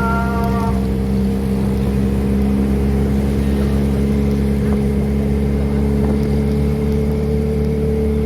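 Kawasaki ZX-25R's 250 cc inline-four, fitted with a Prospeed aftermarket exhaust, running at a steady engine speed, holding one pitch.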